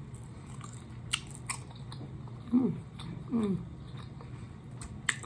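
A person chewing and lip-smacking on sauce-coated chicken wings close to the microphone, with a few sharp wet smacks. Midway come two short hums of the voice, each falling in pitch.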